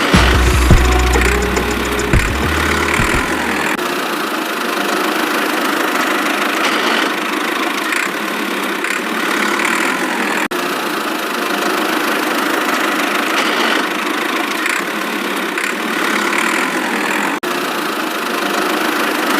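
A small motor running steadily with an even whirring noise, cut off for an instant twice.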